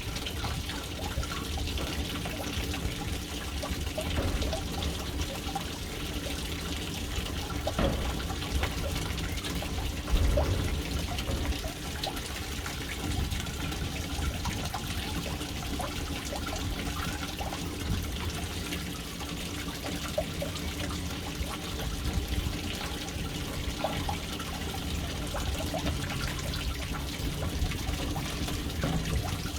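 Water falling steadily into a household water storage tank through its float valve: a continuous splashing and trickling with a few brief louder splashes.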